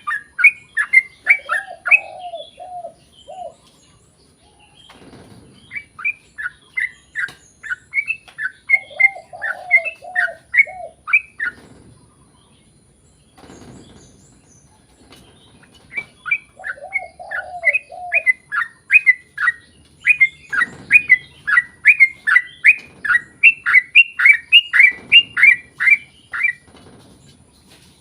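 Yellow-vented bulbul singing its long chattering song: rapid sharp chirps, about three a second, delivered in three bouts with short pauses between them. Each bout opens with a few lower warbled notes.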